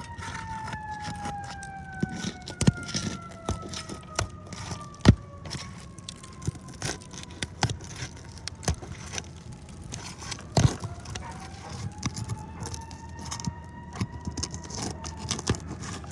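A siren wails in the distance, its pitch sliding slowly down and later rising again. Over it come sharp irregular clicks and cracks of a metal roof snake prying up asphalt shingles and breaking their seal strips, the loudest about five and ten seconds in.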